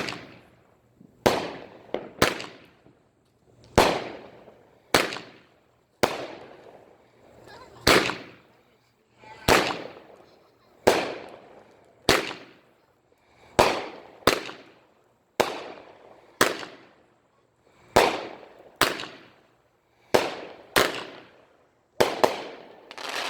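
Consumer fireworks going off in a long run of sharp bangs, about one a second and sometimes two in quick succession, each trailing off in a short fading tail.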